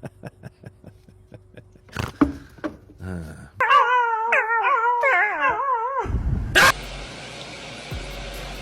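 A dog howls for about two and a half seconds, its pitch warbling up and down, after a run of light, evenly spaced ticks and a couple of knocks. A steady hiss follows.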